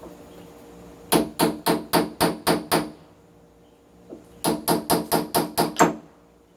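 Hammer blows in two quick runs of about seven strikes each, roughly four a second, with a pause of over a second between the runs.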